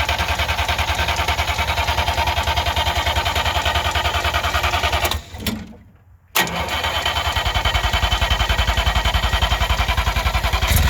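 Starter cranking the 1958 DKW pickup's three-cylinder two-stroke engine over in an even pulsing rhythm without it catching: a first attempt of about five seconds, a pause of about a second, then a second attempt. The engine is reluctant to start after long storage, with fuel supply suspected.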